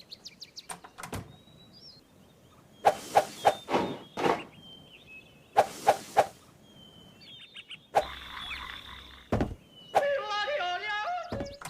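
Cartoon sound effects: short high chirps like birdsong, with quick runs of three or four sharp knocks twice, a brief hiss about eight seconds in, and a wobbling pitched warble near the end.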